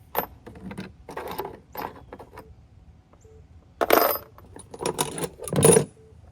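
Metallic clinks and clattering, as of tools or small metal parts being handled and set down, loudest about four seconds in and again near the end. Under it a faint short electronic chime beeps about once a second.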